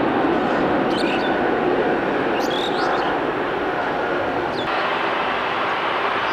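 Jet airliner engines running with a steady, dense roar, with a few short high bird chirps over it.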